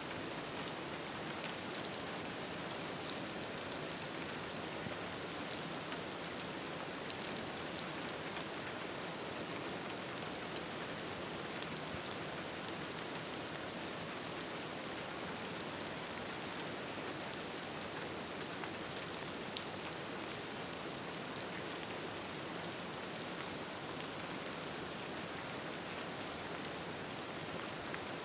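Steady rain falling as an even hiss, with scattered faint ticks of drops throughout.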